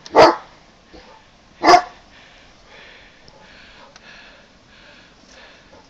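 A dog barking twice, two short barks about a second and a half apart, then only faint background sound.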